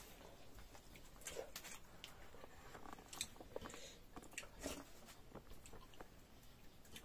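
Quiet close-up eating sounds: a person chewing and smacking their lips over a meal of sisnu and dhido, with irregular soft clicks and wet smacks.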